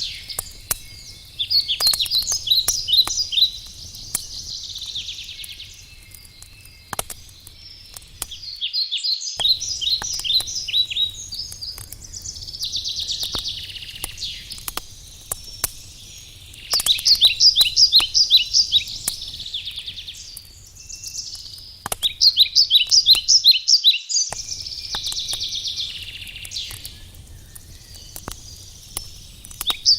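Wood campfire crackling with sharp pops, while songbirds sing short trilled phrases every few seconds; the birdsong is the loudest sound.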